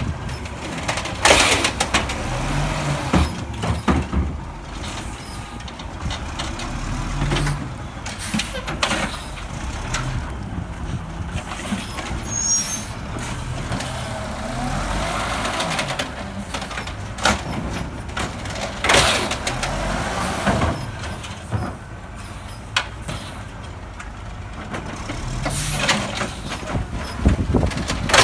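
Garbage truck running, its engine revving up and down several times, with a few sudden loud hisses and bangs, air-brake hisses among them.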